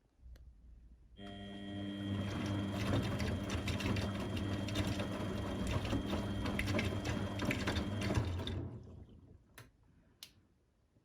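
A laundry appliance's electric motor runs with a steady hum, rattling and water noise. It starts about a second in and cuts off after about seven seconds, followed by a couple of faint clicks.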